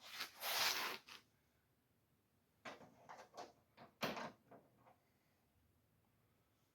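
A short scraping rush, then a quick run of light clicks and knocks, the loudest about four seconds in: hardware being handled and started into place by hand.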